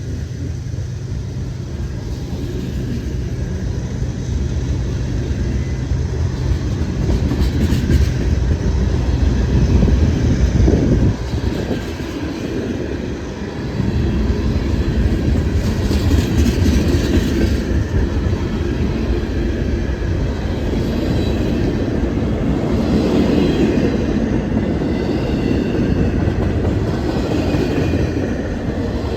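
A freight train passing close by. The diesel locomotive's low engine drone builds for about ten seconds, then the train's cars roll past with a steady rumble and clattering wheels.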